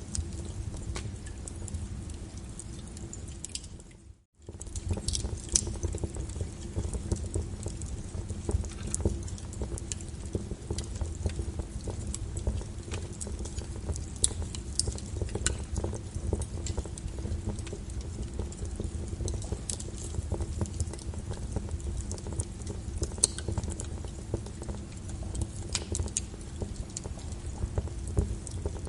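Wood fire in a fireplace crackling, with irregular sharp pops over a steady low rumble of the flames. The sound fades out briefly about four seconds in, then comes back.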